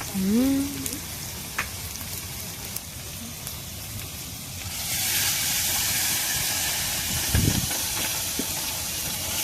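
Food sizzling and frying in a pan over a campfire. The sizzle swells louder about halfway through. A short rising voice-like call is heard right at the start.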